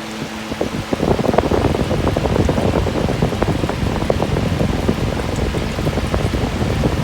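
Water splashing and trickling inside a homemade evaporative room cooler, a dense crackle of drops that grows louder about a second in, over a faint steady fan hum.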